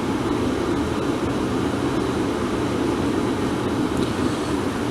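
Steady hum and rush of air-conditioning inside the carriage of a stationary Class 450 Desiro electric train.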